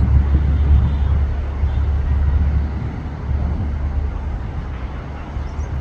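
Emirates Boeing 777-300ER's GE90 jet engines heard as a deep, steady noise during takeoff and climb-out, slowly fading.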